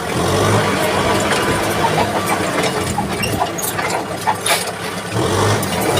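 Kubota tractor's diesel engine running steadily, with scattered clanks and rattles over it. The engine eases off through the middle and picks up again about five seconds in.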